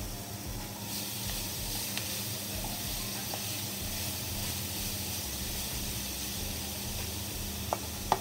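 Grated carrots sizzling in hot oil in a frying pan as they are tipped in and stirred, a steady hiss throughout, with two sharp taps near the end.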